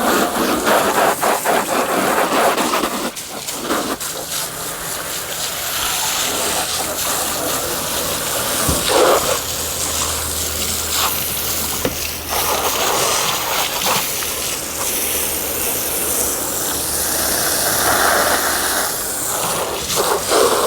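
Rinse water spraying steadily onto a boat's hull and deck, a continuous gushing hiss. A low steady hum runs underneath from about four seconds in.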